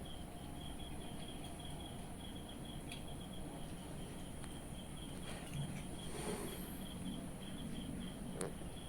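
Faint insect chirping: a steady, rapidly pulsing high trill over low background noise, with a brief soft sound about six seconds in and a light click near the end.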